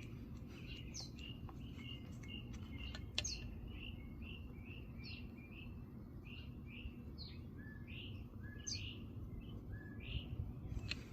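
Small birds chirping, short downward notes repeated a few times a second, over a steady low rumble, with a sharp click about three seconds in.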